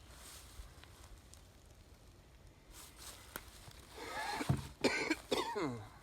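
Short vocal noises from a person near the end, a few pitched sounds sliding down in pitch, like coughing or clearing the throat.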